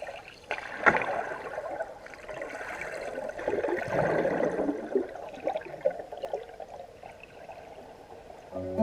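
Whitewater river rapids rushing and splashing, swelling and easing, with one sharp knock about a second in.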